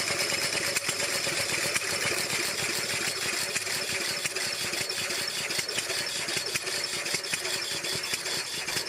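Two-cylinder gasoline engine of a reproduction 1896 Ford Quadricycle running at a steady speed, its firing heard as a rapid ticking.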